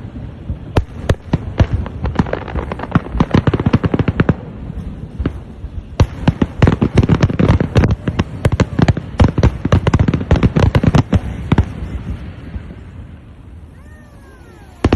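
Aerial fireworks bursting: dense volleys of sharp bangs and crackles that thin out and fade about twelve seconds in. Near the end there is a brief faint pitched cry, then one sharp bang.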